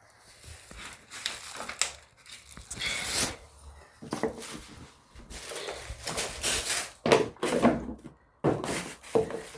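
Irregular knocks, thumps and rubbing or scraping noises of things being handled.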